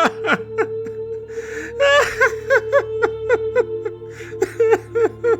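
A man sobbing: a sharp gasping breath, then a run of short whimpering cries, each falling in pitch, in quick succession over soft background music.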